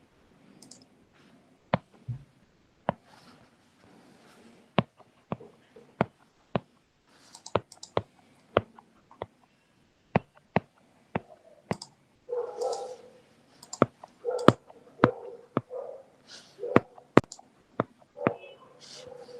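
Irregular sharp clicking from working at a computer, roughly one click a second, with some duller knocks and rustles in the second half.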